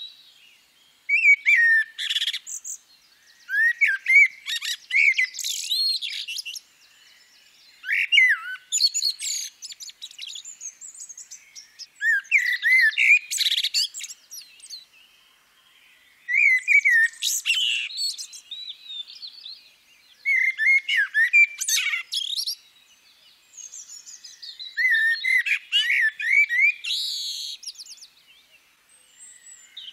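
Recorded birdsong: a bird singing short phrases of high chirps and whistles, repeated every few seconds with brief pauses between.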